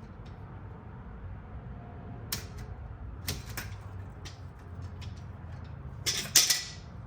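Metal hand tools clicking and clinking against a car's fuel lines and fittings, with a louder clatter near the end, over a steady low hum.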